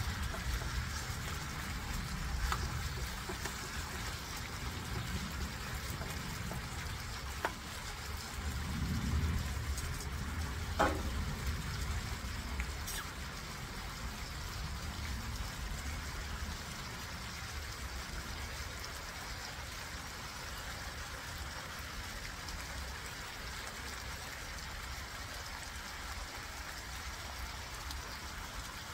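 Chicken tocino sizzling in a frying pan, a steady hiss. A few sharp metal clinks come in the first dozen seconds; the loudest, about eleven seconds in, rings briefly.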